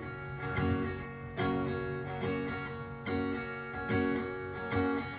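Acoustic guitar strummed in a slow pattern, a new chord struck about once a second, as an instrumental break between sung lines.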